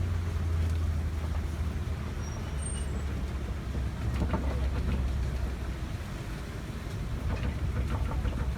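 A safari tour truck driving along, heard from aboard: its engine and tyres make a steady low rumble.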